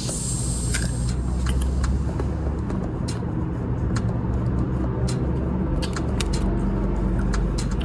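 Steady low rumble of a motor vehicle engine running, with sharp mouth clicks and smacks of someone eating soft ripe mango throughout.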